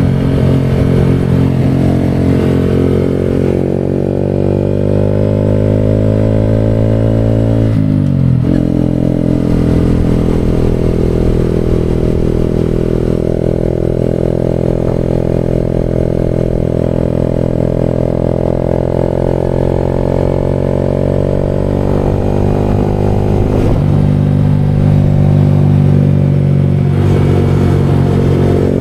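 Motorcycle engine running steadily while riding, its pitch dropping and climbing back about eight seconds in as it shifts gear, with another change in engine pitch near the end.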